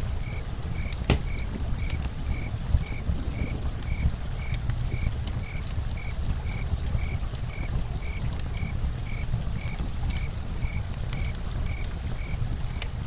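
Campfire and running-water ambience: a steady low rush with scattered crackling pops, one sharper pop about a second in. Over it, a small animal keeps up a regular short chirp, about three chirps a second.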